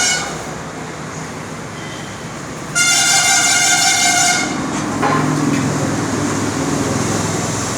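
A vehicle horn blows one steady note for about a second and a half, starting about three seconds in, over a constant engine-like rumble. A lower droning engine note comes up about five seconds in.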